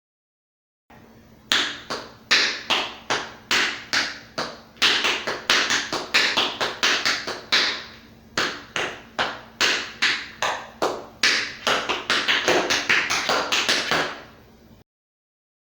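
Tap shoes striking a hard floor in an unaccompanied tap sequence: a steady run of sharp metal taps, single strikes mixed with quick runs of two or three, starting about a second and a half in and stopping near the end.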